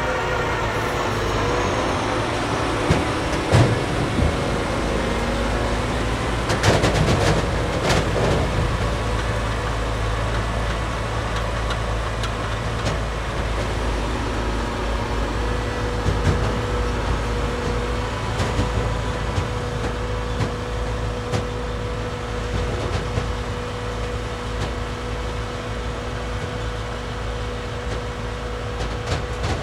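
Holmer Terra Dos T4-40 self-propelled sugar beet harvester running, a steady heavy diesel drone whose pitch falls in the first couple of seconds. Several sharp metallic clanks come around three to four seconds in and again around seven to eight seconds, and a steady whine from the machinery joins from about halfway.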